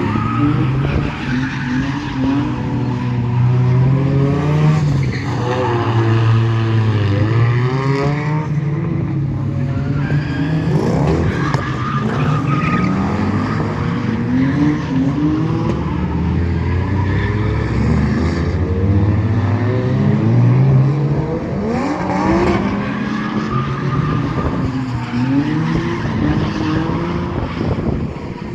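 Drift cars' engines revving hard and falling back, again and again as the cars turn around, mixed with tire squeal and skidding.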